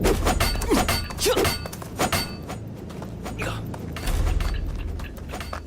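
Staged fight sound effects: a run of sharp impacts over a heavy low rumble that swells about four seconds in.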